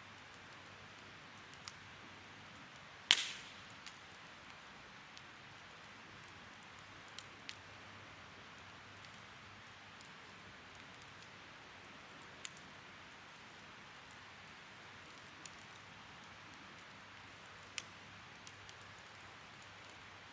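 Wood bonfire burning with a soft, steady hiss and scattered crackles, with one sharp, loud pop about three seconds in.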